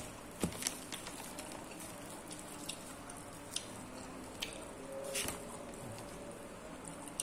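People chewing and smacking their lips while eating rice and fried duck by hand, with scattered small clicks.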